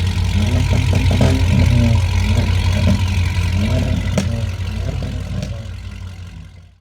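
V8 car exhaust rumbling loudly at a low, uneven idle, with its pitch wavering a little; it fades over the last couple of seconds.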